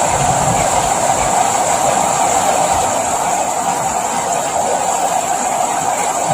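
Steady rain, an even hiss that keeps on without a break.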